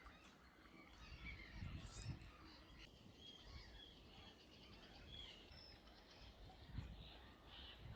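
Faint, scattered chirping and short whistled calls of small birds, over a low, uneven rumble.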